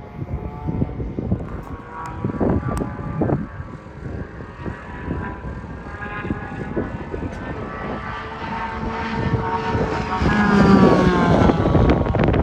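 Sports car engine running at high revs on a race track, its pitch rising and falling through the gears, growing louder as the car draws near toward the end.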